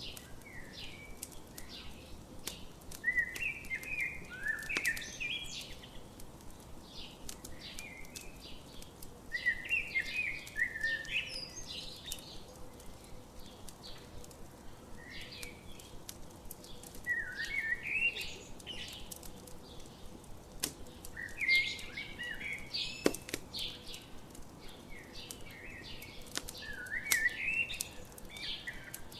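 A songbird singing a short warbling phrase over and over, about every six seconds, over a campfire crackling with scattered sharp pops.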